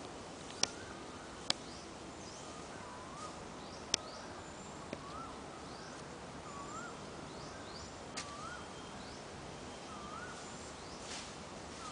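A bird repeating a short warbling call about once every second and a half, over a steady outdoor hiss, with fainter high chirps from other birds. A few sharp clicks stand out in the first few seconds.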